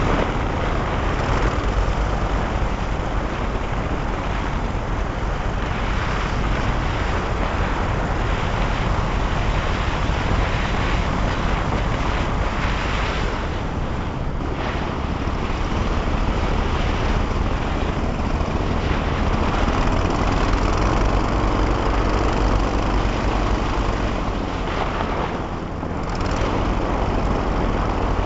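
Twin-engine airboat running steadily, its engines and propellers giving a dense, continuous noise that eases briefly near the end.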